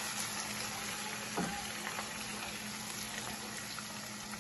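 Blended ginger, garlic and onion sizzling and frying in hot red palm oil in a pan while a wooden spatula stirs it, with one light knock about a second and a half in.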